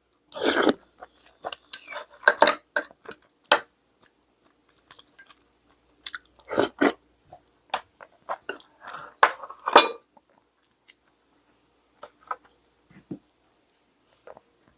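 A person eating close to the microphone: irregular chewing and crunching, with utensils clicking against dishes. The sounds come thickly for about ten seconds, then only a few scattered clicks.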